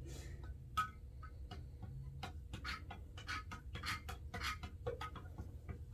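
Glitter being stirred into white-tinted water in a container: an irregular run of small clicks and scrapes, several a second.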